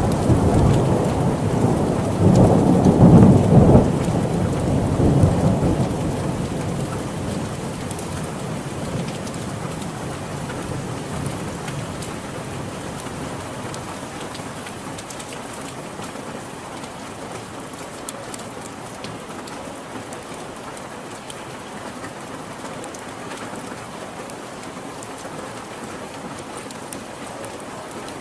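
Steady heavy rain with a roll of thunder that swells in the first few seconds, loudest about three seconds in, then rumbles away; the rain carries on steadily after it.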